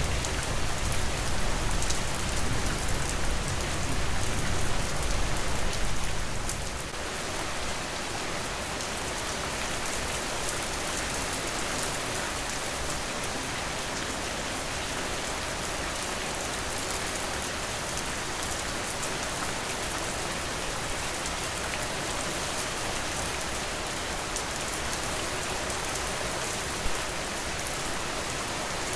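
Steady rain falling on a porch. A low rumble under it fades out about six and a half seconds in, and there is one short sharp sound near the end.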